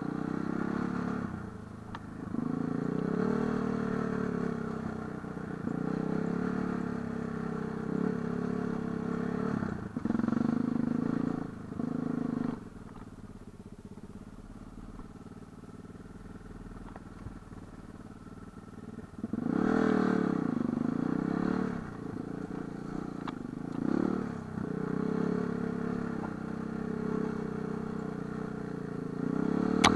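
Light enduro motorcycle engine revving up and down as it is ridden, its pitch rising and falling with the throttle. About halfway through it drops to a quiet idle or coast for several seconds, then revs up hard again.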